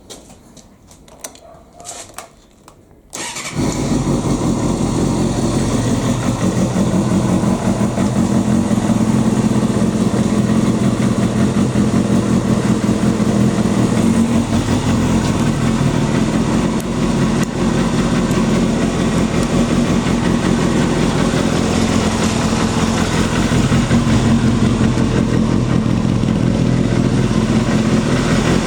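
A few clicks, then about three seconds in a Suzuki GSX250FX's 250 cc four-cylinder engine starts and settles into a steady idle through an aftermarket muffler that the seller takes for an RPM.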